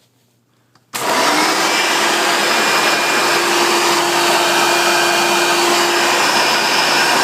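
Hoover vacuum cleaner switched on about a second in: its motor spins up quickly and runs steadily with a whine. It is running again after the repair of a chafed wire that had shorted.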